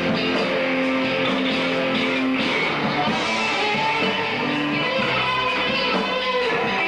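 Hard rock band playing, with electric guitar to the fore and no singing.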